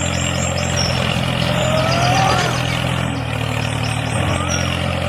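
A motor running steadily with an even low hum, and a short whistle-like glide rising and falling about two seconds in.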